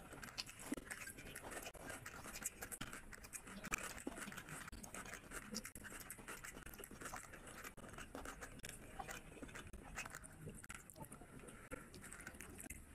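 Close-miked eating sounds of rice and curry eaten by hand: wet chewing and lip smacking, a steady run of small irregular clicks, with fingers working the rice on a ceramic plate.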